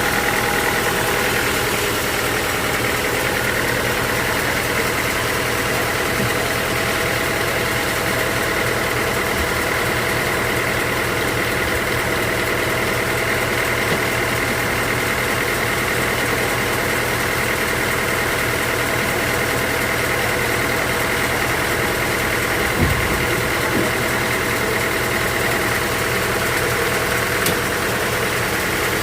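Sawmill machinery running steadily with a constant high whine over a low hum, and a couple of light knocks near the end.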